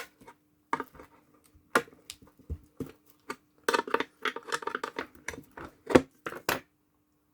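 Irregular clicks, taps and short scrapes of hand tools working on an engine ECU's housing, busiest in the second half with one sharp snap about six seconds in, over a faint steady hum.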